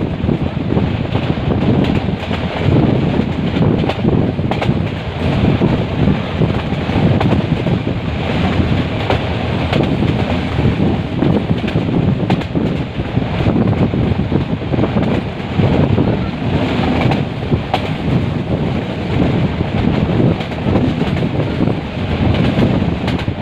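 Metre-gauge passenger train running, heard from on board: a steady rumble of wheels on the track with wind buffeting the microphone and a few faint clicks.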